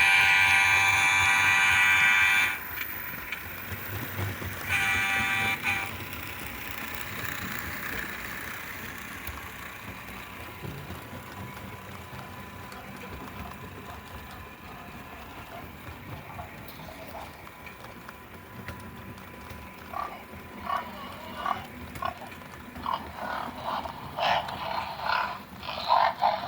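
HO-scale model diesel locomotives running by on the layout. A horn sounds a long blast at the start, stopping about two and a half seconds in, then a short one about five seconds in, over a faint steady running noise. A series of short irregular chirps or croaks comes near the end.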